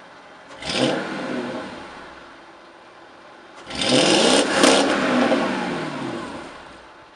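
Mercedes S500 W220's 5.0-litre V8 on a custom exhaust with no middle silencer and an added second catalyst, idling and then revved twice: a short blip about half a second in, then a longer, higher rev a few seconds later that settles back to idle near the end.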